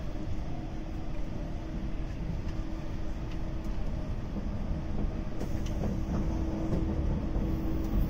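A JNR Series 185 electric multiple unit running along the line: a steady rumble of wheels on rail, with a faint steady hum over it.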